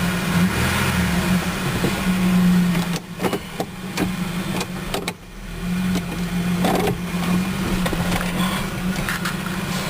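Ford Ranger's 4.0-litre V6 engine running, heard from inside the cab. In the middle the engine sound drops away for a couple of seconds, with several sharp clicks, then picks up again.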